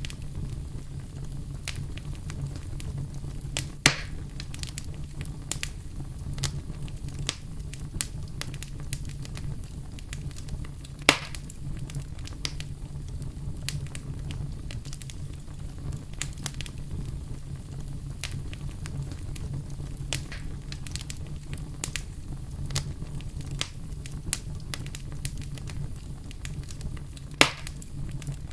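Wood fire burning in a fireplace, crackling steadily over a low rumble of the flames, with three louder pops.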